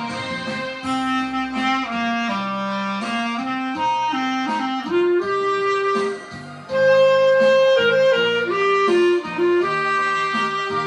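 Clarinet playing a slow song melody in long held notes over a lower accompaniment line, pausing briefly about six seconds in before a louder high phrase.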